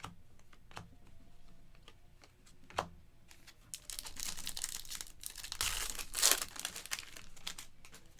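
Foil trading card pack being torn open and its wrapper crinkled, a dense crackling from about four seconds in that stops shortly before the end. It is preceded by a few sharp taps of cards being handled and set down.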